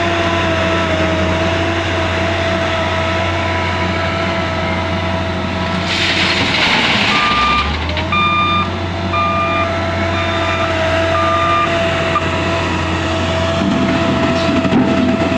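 L&T 9020 wheel loader's diesel engine running steadily with a high whine, its reversing alarm beeping about once a second. About six seconds in, a loud hissing rush lasts for nearly two seconds, then the beeping resumes.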